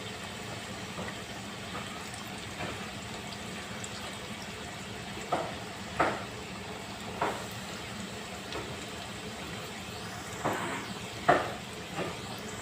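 Coated chicken pieces deep-frying in hot oil, a steady sizzle, with about six short knocks or clinks from about five seconds in.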